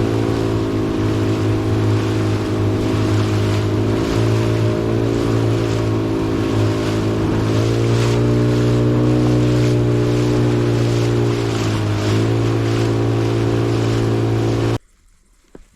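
Tarpon 9.9 hp outboard motor running steadily under way, its pitch shifting slightly up and down a few times, over water rushing and splashing against the boat. The sound cuts off abruptly near the end.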